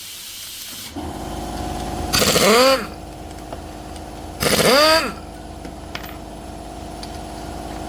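A motor starts about a second in and runs steadily with a hum. Twice, a loud pitched sound rises and then falls over it, each lasting about half a second.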